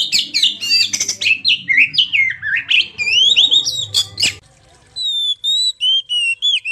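Oriental magpie-robin song, played as a recorded song tutor. It opens with a fast, varied run of chirps, rising and falling whistles and harsh notes for about four seconds over a faint low hum. After a short pause come clear, evenly spaced whistled notes alternating between two pitches.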